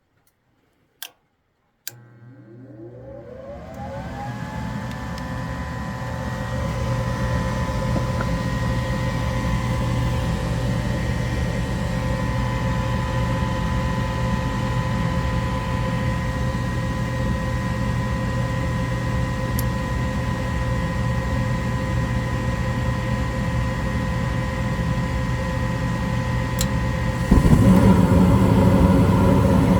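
Goodman gas furnace starting a cycle: two relay clicks, then the draft inducer motor spins up, its whine rising in pitch and settling into a steady hum. Near the end the sound gets suddenly louder with a deeper rush joining in.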